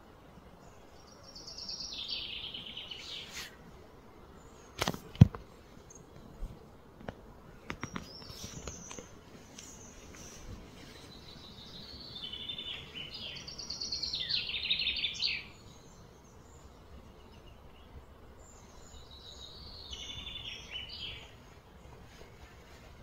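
A songbird singing several short trilling phrases that slide downward in pitch. A sharp knock comes about five seconds in, followed by a few fainter clicks.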